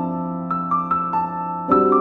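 Slow, calm piano music: a held chord in the low register with single notes picked out above it, and a new chord struck near the end.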